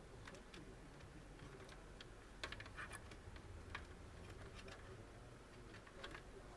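Near silence with faint, scattered small clicks of cables and plastic parts being handled, a few close together about two and a half seconds in.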